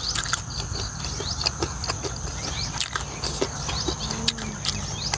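Close-up chewing and wet mouth clicks while eating, irregular and quick, over a steady high insect trill and a low wind rumble on the microphone.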